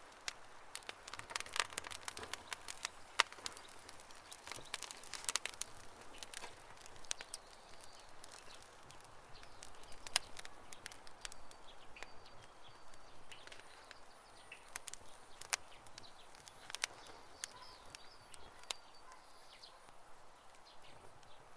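Campfire crackling: irregular sharp pops and snaps of burning wood, thicker in the first few seconds and sparser after.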